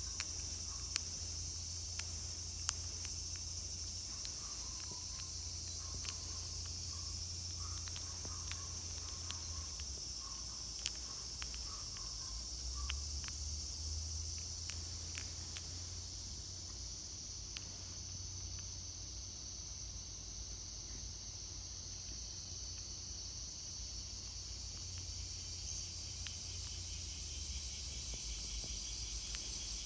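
Steady, high-pitched drone of a cicada chorus, with scattered light clicks.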